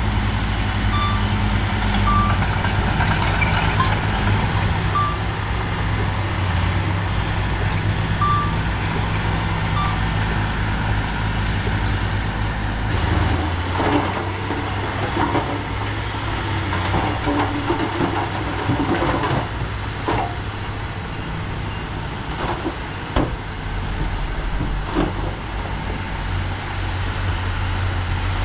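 Heavy diesel earthmoving machinery running steadily under load, with a few short high beeps in the first ten seconds. After about 13 s the engine drone continues with scattered metallic knocks and clanks.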